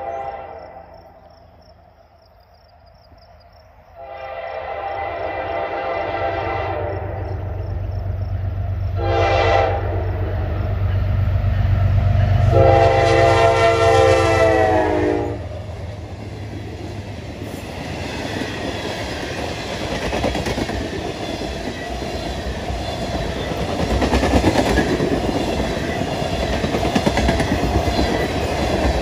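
Freight train's diesel locomotives sounding the horn in the grade-crossing pattern: the tail of one blast, then long, short, long, the last blast dropping in pitch as the locomotives pass with a loud engine rumble. The freight cars then clatter past steadily over the rails.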